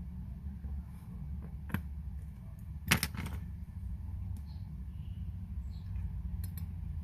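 Small sharp clicks and taps of hand tools on watch parts: a single click, then a louder quick cluster of clicks about three seconds in, and a few faint ticks later, over a steady low hum.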